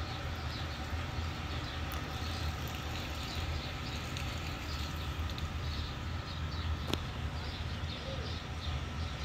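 Small birds chirping over and over over a steady low rumble, with a single sharp click about seven seconds in.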